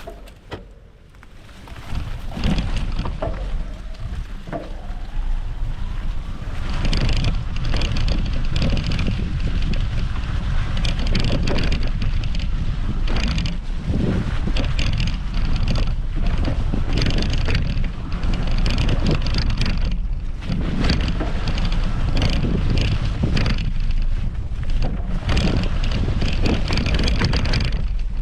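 An e-bike being ridden over forest ground: tyres rolling and crunching with clattering knocks from the bike, and wind buffeting the microphone. It is quiet at first and builds to a steady loud rumble about two seconds in.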